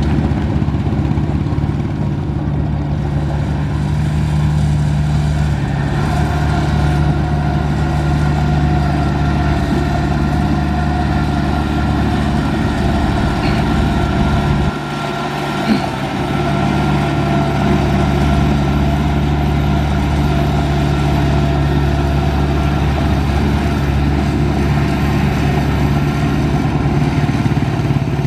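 Heavy earthmoving machine's diesel engine running steadily, with a higher whine joining in a few seconds in. About halfway through the engine note drops briefly, a short click sounds, and then it picks up again.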